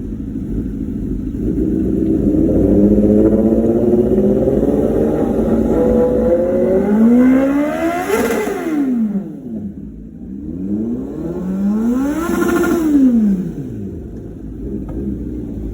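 Sport motorcycle engine being revved twice, the pitch climbing slowly to a high peak and dropping back, then a second quicker rev up and down, over a steady low rumble.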